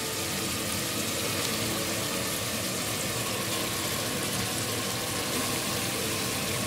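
Oil sizzling steadily in an aluminium pressure cooker as onions, tomatoes, garlic and raw goat head pieces fry.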